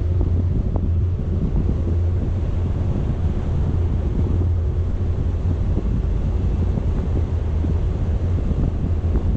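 Wind buffeting a GoPro's microphone, a steady rush over a constant low rumble, as on a moving vehicle.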